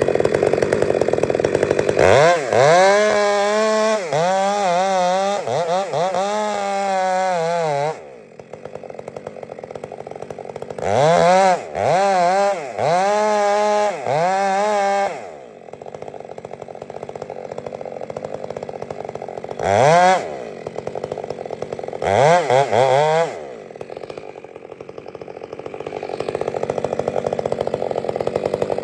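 Chainsaw running, revved up in repeated short bursts with the pitch rising and falling, and dropping back to a steady idle between them. There are clusters of revs early on, again in the middle, then one and then two more near the end.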